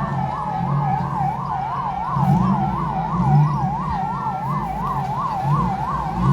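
Electronic siren in a fast yelp, its pitch sweeping up and down about four times a second without a break, over a low rumble.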